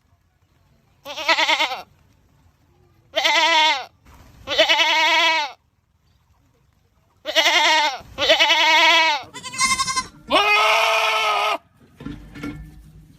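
Goats screaming: a string of about seven loud, wavering, drawn-out calls, each lasting up to about a second and a half, with short pauses between them.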